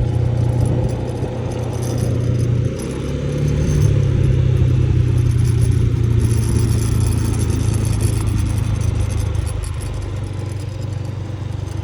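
Motorbike engine running steadily while riding, with light rattling over the rough road. The engine note drops about three seconds in, then picks up again.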